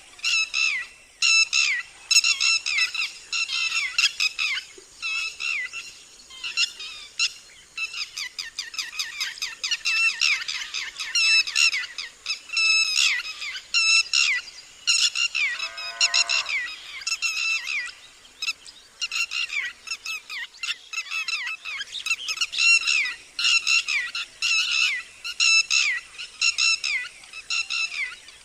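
Red-wattled lapwing giving its loud, repeated alarm call: quick groups of sharp, slightly falling notes, again and again. About halfway through a lower, falling call sounds once.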